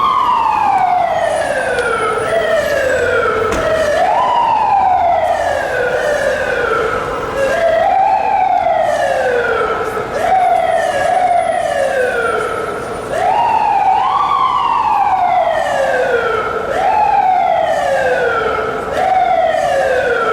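FDNY fire apparatus siren sounding in a manual wail. It climbs sharply in pitch and then falls away more slowly, over and over, roughly every two to three seconds, with some cycles overlapping.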